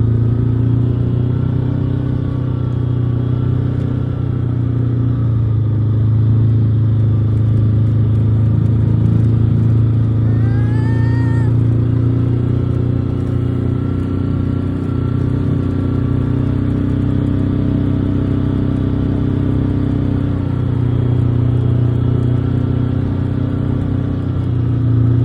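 Motor vehicle engine running steadily at low speed, pulling a sled on a tow rope through snow. About ten seconds in there is one short rising-and-falling call over the engine.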